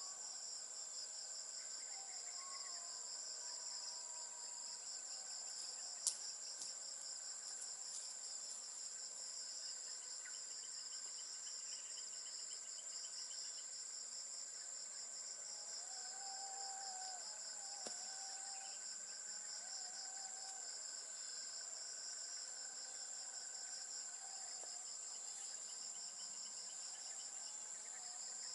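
Rainforest insects calling steadily: one high, continuous whine over a fast pulsing trill, with faint lower warbling calls now and then. A single sharp click about six seconds in.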